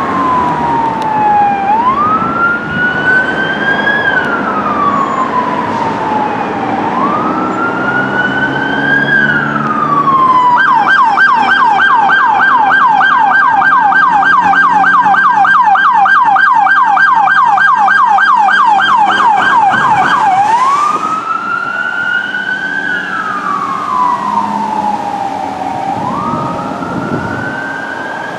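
Emergency vehicle electronic siren sounding a slow wail, rising and falling about every five seconds. About ten seconds in it switches to a fast yelp of about three sweeps a second, then goes back to the wail near two-thirds of the way through.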